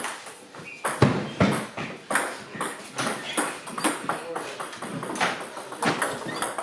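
Table tennis rally: a quick, irregular run of sharp clicks as the celluloid ball strikes the bats and the table.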